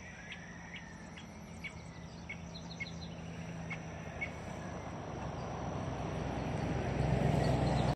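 Rainforest insects buzzing steadily at a high pitch, with short repeated chirps over the first few seconds, while a rushing background noise grows louder toward the end and then cuts off suddenly.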